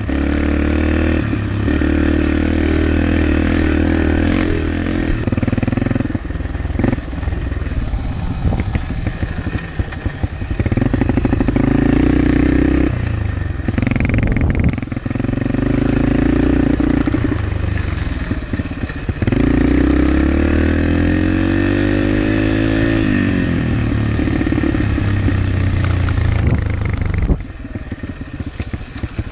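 Dirt bike engine running hard under riding, its pitch climbing and dropping again and again as the throttle is worked and gears change. Near the end the engine falls back to a lower, quieter note.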